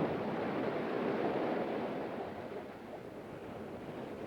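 Ocean surf: the wash of a wave that fades away over a few seconds.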